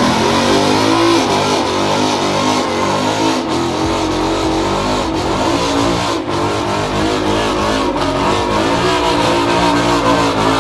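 Car engines revving loudly and continuously, the pitch shifting up and down.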